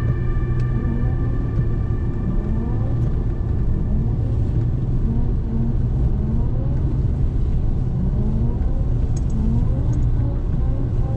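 Car driving: a steady low engine and road rumble, with short rising tones recurring through it.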